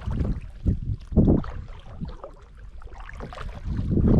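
Kayak paddle strokes swishing through river water, with wind gusting over the microphone as a low rumble; a few strokes stand out louder.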